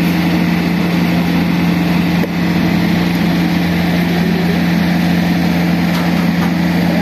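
An engine running steadily at constant speed, a loud, even hum.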